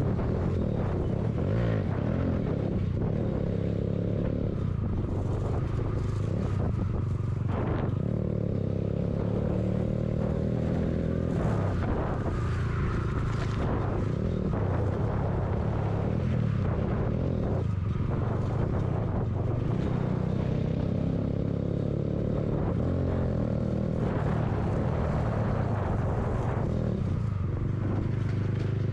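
Motorcycle engine running under way as it is ridden, its note rising and falling with the throttle through gear changes, with wind and road noise over it.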